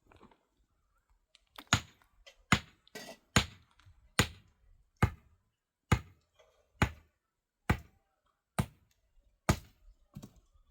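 Repeated heavy knocks, about a dozen evenly spaced blows a little under a second apart, as a hand tool strikes something hard.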